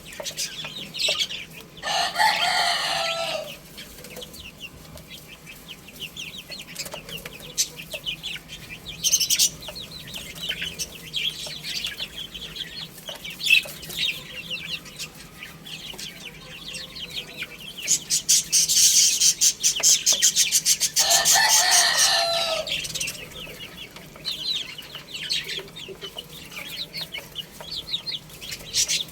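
Chicks peeping nonstop in quick high chirps, with two longer, lower calls from an adult chicken, one about two seconds in and one near the last third. A flurry of wing flapping comes just before the second call.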